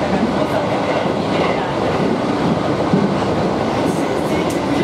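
Aoimori Railway 701-series electric train running along the line, heard from inside the passenger car: a steady rumble of wheels on rail, with a few light clicks about four seconds in.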